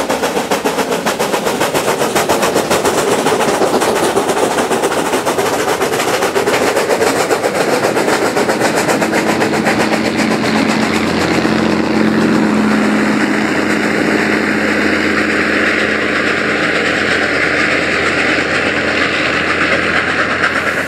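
Saddle-tank steam locomotive working a wagon train, its exhaust coming in quick, even beats. From about ten seconds in, the steady drone of a Bagnall diesel shunter's engine at the back of the train takes over, loudest around its middle.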